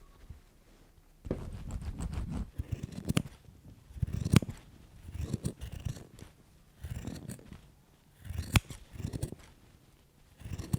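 Scissors snipping and trimming tufted rug yarn: irregular bursts of cutting, with sharp clicks of the blades, about once a second.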